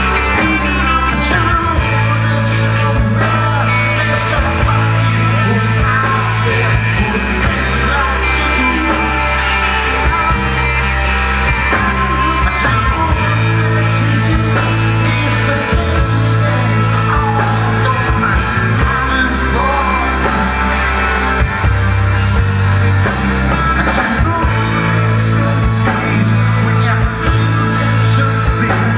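Live rock band playing: a steady drum beat with regular cymbal strokes over sustained bass notes and guitars, with some singing.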